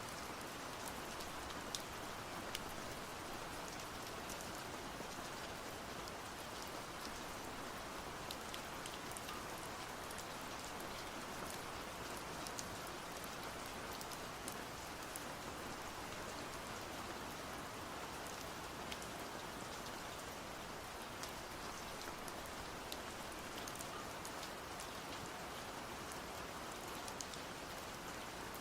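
Steady heavy rain falling on a surface, with scattered individual drops ticking on top.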